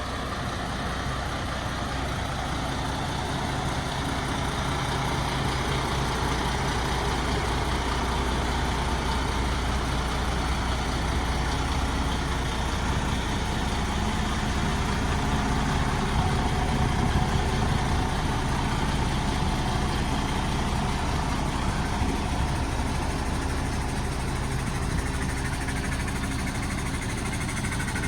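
MAN TGX 26.480 truck's 12.4-litre straight-six diesel engine running steadily at a constant low speed, with a slight swell in level a little past halfway.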